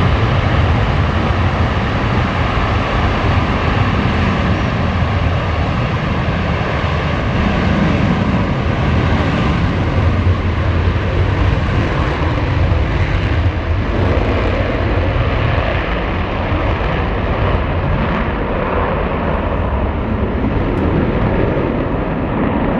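Four Blue Angels F/A-18 Super Hornet jets taking off together in diamond formation under full power: a loud, steady jet roar with a faint high whine that slowly falls in pitch.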